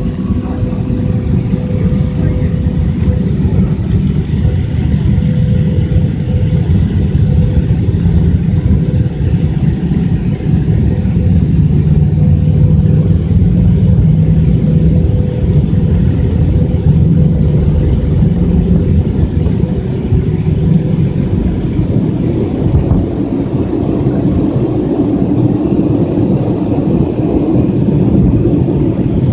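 Cabin noise of an MD-82 airliner with its rear-mounted Pratt & Whitney JT8D engines running: a loud, steady low rumble with a faint steady hum. About two-thirds of the way in the hum fades and the rumble grows rougher and higher.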